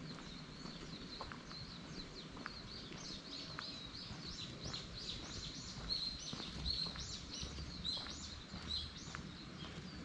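A songbird giving a rapid run of short, high, arched chirps, growing stronger about three seconds in, over a steady low background noise.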